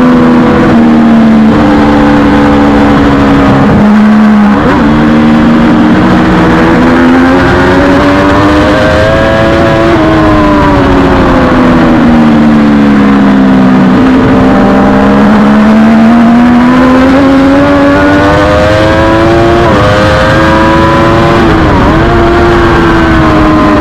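Triumph Daytona 675R race motorcycle's inline-three engine at full race pace: its pitch climbs and falls with the throttle through the corners, with quick dips at gear changes about four seconds in and twice near the end.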